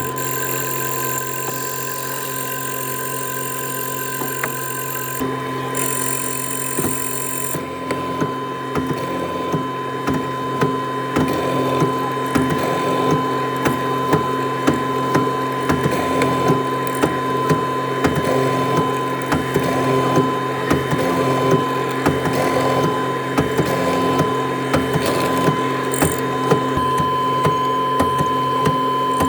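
A woodworking machine running with a steady whine and many irregular ticks and clicks of cutting, busier and a little louder from about eight seconds in.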